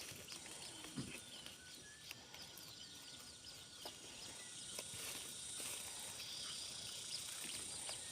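Faint rural ambience of small birds chirping, many short high chirps, over a steady insect hiss that grows stronger about halfway through. A few light knocks are mixed in.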